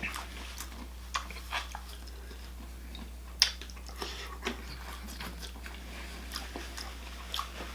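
Close-up eating sounds of Cajun-boil seafood: chewing and biting with scattered small clicks and snaps, one sharper snap about three and a half seconds in.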